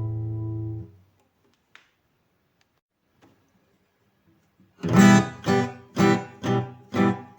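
A held final chord dies away under a second in, followed by a few seconds of silence. Then a guitar starts strumming chords in a steady rhythm of about two strokes a second, opening the next song.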